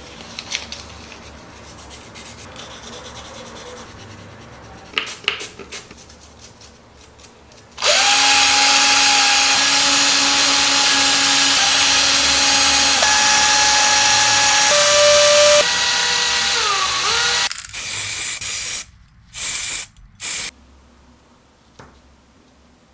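An electric power tool, a drill-type motor, runs for about ten seconds with a steady whine that shifts in pitch a few times as it works, then gives three short bursts. Before it starts there are light clicks and taps of parts being handled.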